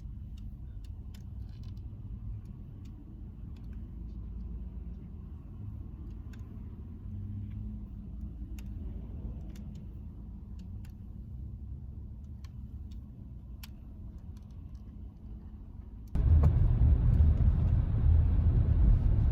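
Road noise inside a moving van: a steady low rumble with scattered faint clicks. About 16 seconds in it suddenly becomes much louder and fuller.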